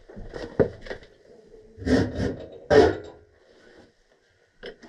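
Gas pipe fittings being handled and test-fitted: a few sharp knocks and scrapes, the loudest nearly three seconds in, then a quiet stretch.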